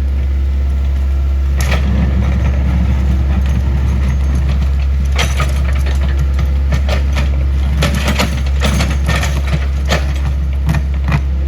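Excavator engine running steadily, with a clatter of cracking and snapping wood and debris from about five seconds in as the machine breaks up a house.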